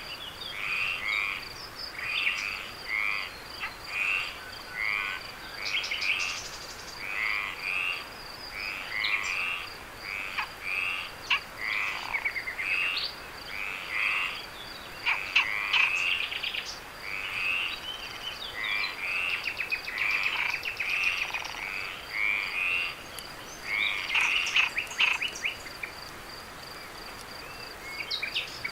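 Frogs croaking, repeated calls about one or two a second, over a steady high insect trill. The frog calls stop near the end, leaving only the trill.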